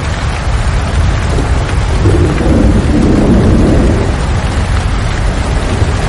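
Steady heavy rain, with a low rumble of thunder swelling about two seconds in and dying away by about four seconds.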